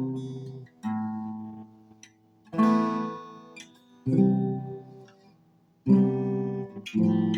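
Acoustic guitar chords strummed one at a time, about six in all, each struck sharply and left to ring and fade before the next.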